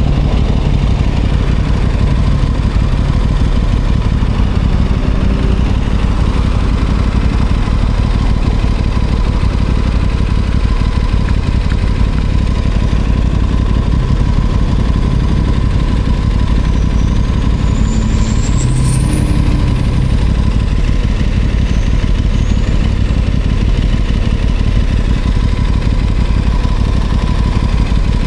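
Aprilia Tuono 660 Factory's parallel-twin engine running steadily, its pitch shifting only slightly, under a constant rushing noise. About two-thirds of the way through, a brief high whistle rises and falls.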